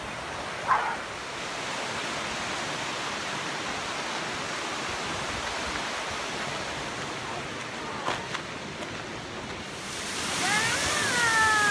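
Steady rushing of a waterfall. A voice comes in near the end.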